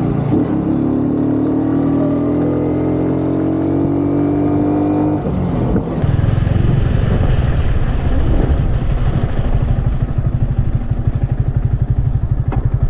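Motorcycle engine under way, its pitch rising steadily for about five seconds as it accelerates. About five seconds in the revs drop suddenly, and it runs on at low revs with a rapid, uneven beat.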